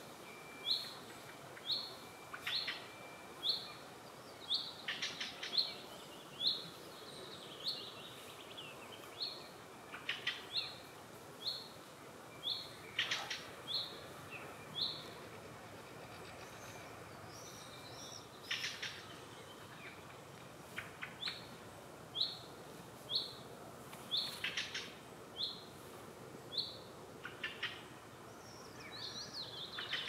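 Songbirds calling. One bird repeats a short high note every half second or so, with a pause around the middle, while other birds add brief rattling calls now and then.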